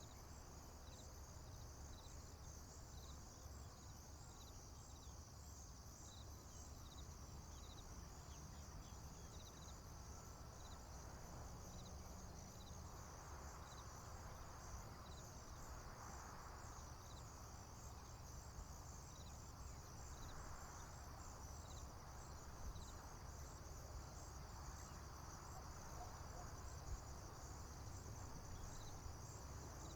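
Crickets chirping in a field: a steady high trill with a slower regular chirp repeating a little more than once a second, over a faint low rumble. A soft rushing sound swells and fades in the middle.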